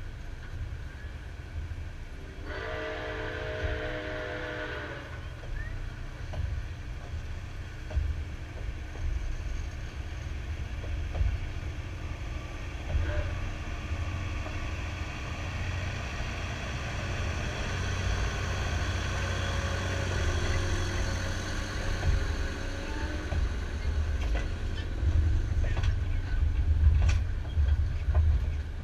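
Passenger cars of a steam excursion train rolling past on the rails: a steady low rumble of wheels and cars, getting louder near the end. About two seconds in, a chime whistle from the steam locomotive up ahead sounds once for about two and a half seconds.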